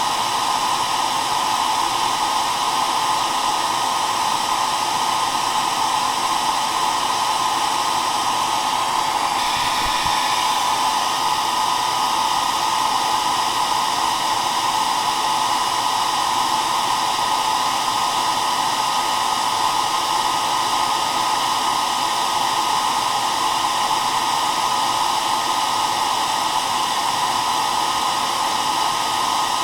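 Hair dryer running continuously: a steady rush of blown air with an even motor whine through it, holding the same level throughout.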